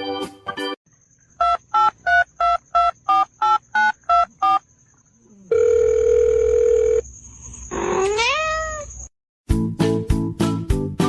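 A telephone keypad dialing ten digits in quick beeps, then a steady tone for about a second and a half, then a cat's rising meow. Music plays briefly before and after.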